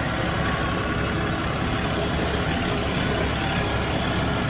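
John Deere tractor's diesel engine running steadily as the tractor drives at low speed, heard from the operator's seat.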